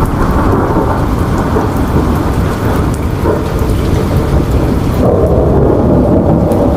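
Steady heavy rain with a low rolling rumble of thunder underneath. About five seconds in, the high end drops away and the rumble swells slightly.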